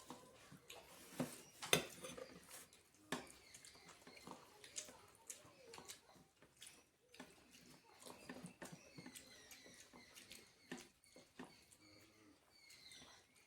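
Quiet eating sounds: rice and curry being mixed and eaten by hand from a plate, with chewing and scattered small clicks and taps.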